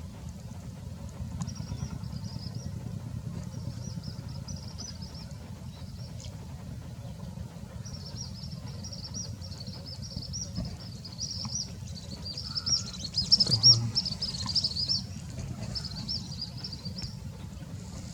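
Small birds chirping in quick high-pitched runs, several in a row, loudest about two-thirds of the way through, over a steady low rumble.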